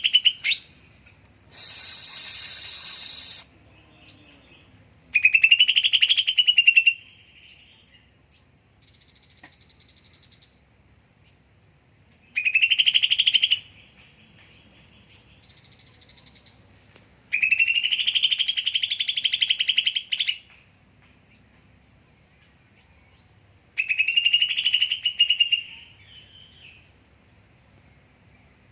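Greater green leafbird (cucak ijo) singing: loud whistled phrases of one to two seconds, each rising then falling in pitch, repeated about every five to six seconds, with softer high twittering between them. A harsh hissing burst comes about two seconds in, and a faint steady high tone runs underneath.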